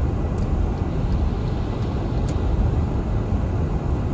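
Car driving on a snowy road: a steady low rumble of road and engine noise, with a few faint ticks.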